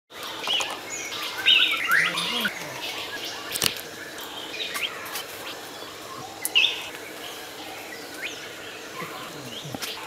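Small birds chirping and calling in short, varied notes, busiest in the first two seconds and again about six and a half seconds in. Two sharp clicks, one about three and a half seconds in and one near the end.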